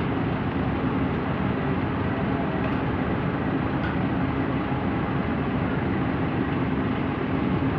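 Heavy diesel engine running steadily at a constant pitch, with a steady low drone.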